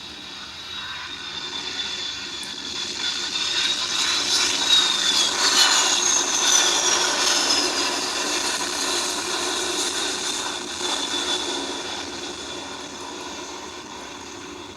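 Jet airliner passing by. Its engine noise swells to a peak about five seconds in and then fades, and a high engine whine falls in pitch as it goes past.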